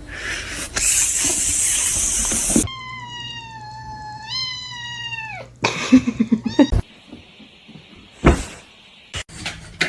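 A cat's long drawn-out meow, about three seconds in, lasting some two and a half seconds, rising in pitch partway and dropping off at the end. It comes after a loud rushing noise and is followed by a few knocks and thumps.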